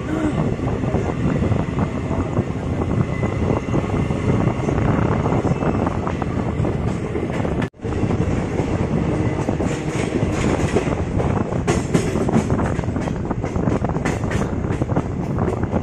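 Passenger train running along the track, heard from the open door of a coach: a steady rumble with the wheels clattering over rail joints. The sound breaks off for a moment about halfway through.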